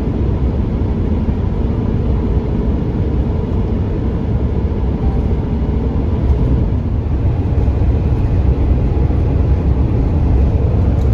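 Steady, loud road and engine noise of a moving vehicle, heavy in the low end with no changes.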